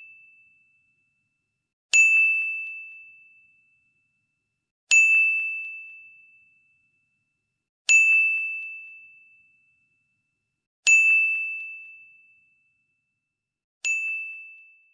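A ding sound effect repeating five times, about every three seconds. Each is a sharp strike on a single high, bell-like tone that rings and fades away over about a second and a half.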